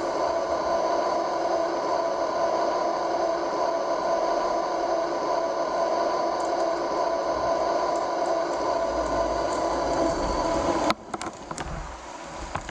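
MTH RailKing model R26/28 Redbird subway train running, with a steady running noise and motor hum. About eleven seconds in the sound drops off suddenly with a few sharp clicks, then builds again.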